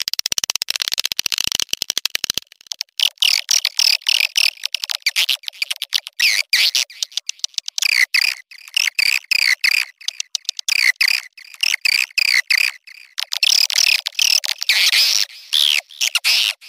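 Edible-nest swiftlet mating-call recording, the kind played to lure swiftlets: a fast train of clicks for the first two seconds, then dense, repeated high twittering chirps.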